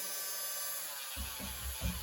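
A small Hyper Tough rotary tool, used for polishing, spins down and stops about a second in. Background music with a steady low beat then comes in.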